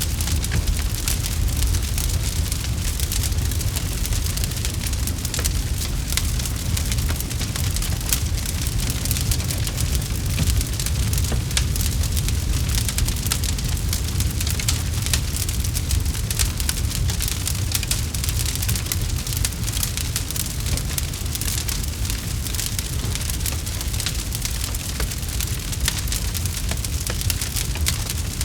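Campfire crackling steadily: a dense run of small snaps and pops from the burning wood over a continuous low rumble of the flames.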